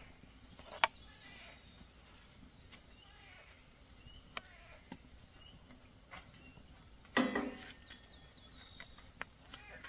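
Pancakes frying quietly in a pan over a small wood-fired stove, with scattered sharp clicks and crackles. About seven seconds in comes a short, loud call.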